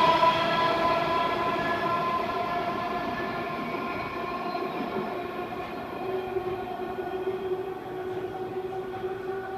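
WMATA Metrorail train's electric traction motors whining as the train moves away, a stack of tones slowly falling in pitch and fading.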